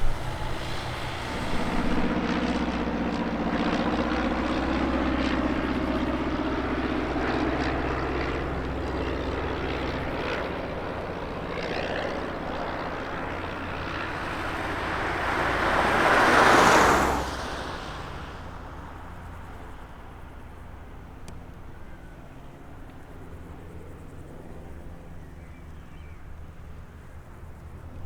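Propeller light aircraft passing close: a steady engine drone that swells to a loud peak about two-thirds of the way through, then falls away quickly.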